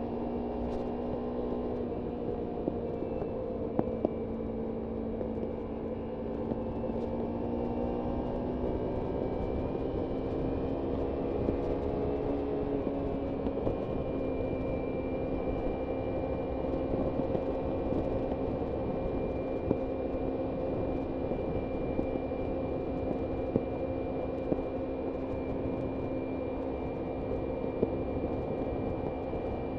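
Kawasaki Ninja 300 parallel-twin engine running at a steady cruise, with wind and road noise underneath. The engine pitch eases down a little, then climbs between about eight and thirteen seconds in and holds steady at the higher note. A few faint sharp ticks sit over it.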